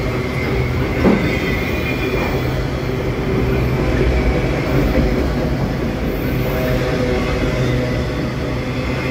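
Freight train of enclosed autorack cars rolling past: a steady rumble of steel wheels on rail, with a faint high wheel squeal in the first couple of seconds and a single sharp clank about a second in.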